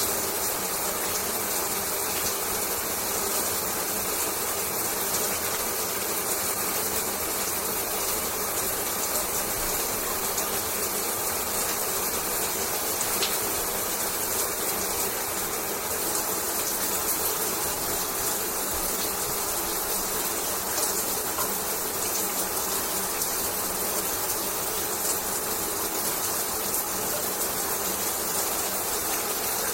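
Shower water running steadily: an even spray hiss with a fine crackle of droplets hitting the surface.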